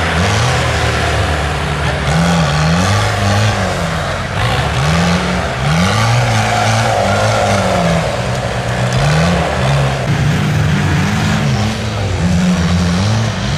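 4x4 off-road vehicle's engine revving up and down again and again, its pitch rising and falling every second or two.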